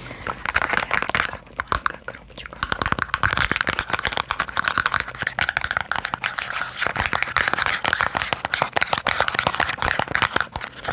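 Fast ASMR tapping on small boxes: a dense run of quick, crisp clicks with a short pause about one and a half seconds in.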